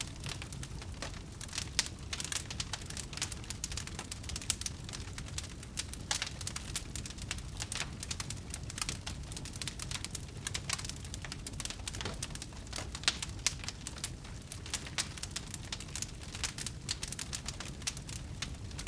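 Wood fire burning in a fireplace, crackling and popping with many irregular sharp snaps over a low steady rumble of the flames.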